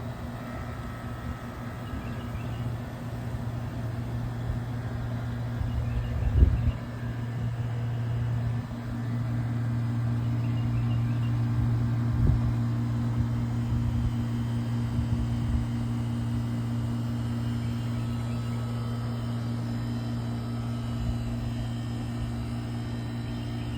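Goodman GSC13 3-ton central air conditioner condensing unit running: a steady low electrical hum from the compressor, with the condenser fan, that grows a little louder about eight seconds in. A couple of brief knocks sound around six and twelve seconds.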